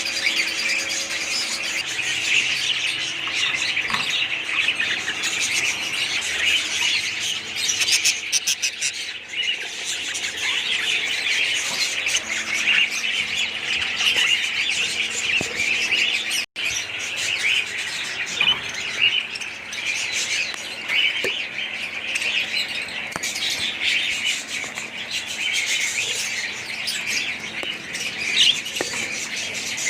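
A flock of budgerigars and other cage birds chattering and squawking continuously, with dense overlapping warbles. The sound cuts out for an instant about halfway through.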